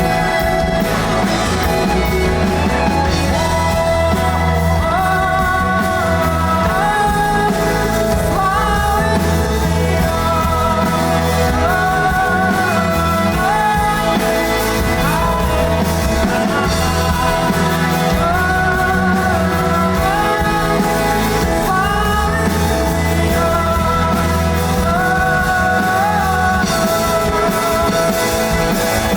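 Rock band playing a song live, with singing over the band. The melody rises and falls in repeated phrases.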